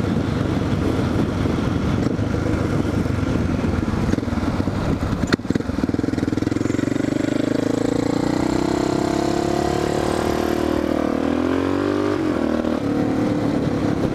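Single-cylinder Suzuki dual-sport motorcycle engine under way, the pitch rising steadily as it pulls harder, then dropping and dipping briefly about twelve seconds in, as at a gear change, before it runs on steady. A single sharp click comes about five seconds in.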